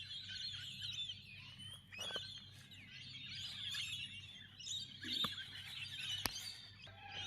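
A flock of small birds chattering and chirping continuously, with many overlapping high calls. There is a sharp click about six seconds in.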